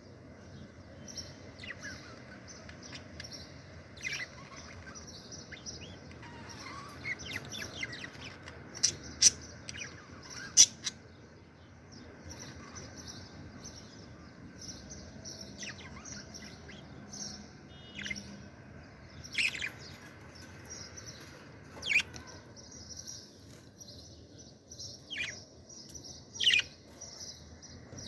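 Budgerigars chattering and warbling continuously, with sharp, loud chirps standing out over the chatter: a cluster about nine to eleven seconds in, and more through the second half.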